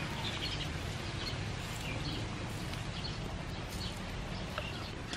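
Outdoor ambience of small birds chirping now and then over a steady low rumble.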